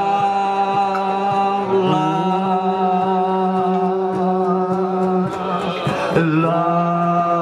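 A man singing the word "love" in long, drawn-out held notes, chant-like. The pitch shifts about two seconds in and slides down and back up near the end.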